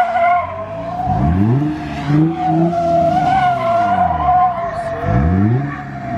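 Car tires squealing steadily as a car spins its wheels, while the engine revs climb steeply and fall back twice: once about a second in, and again about five seconds in.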